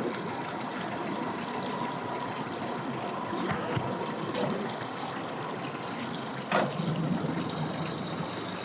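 Engine idling over a steady wash of water noise, with one sharp knock about six and a half seconds in, followed briefly by a low hum.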